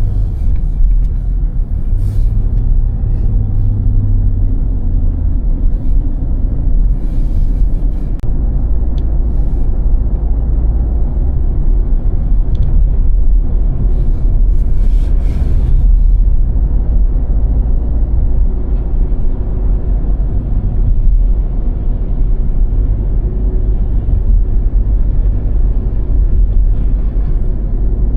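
Car driving on snow-covered roads: a steady low rumble of engine and tyres.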